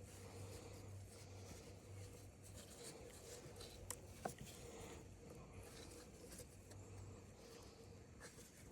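Near silence: faint steady room hum with a few soft clicks, two of them sharper about four seconds in.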